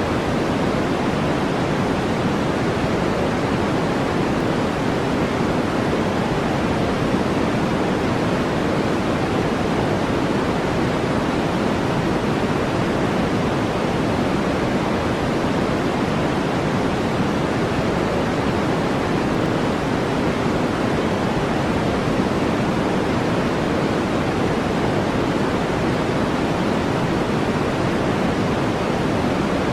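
Steady brown noise: an even, deep hiss that stays unchanged, with no breaks or separate sounds.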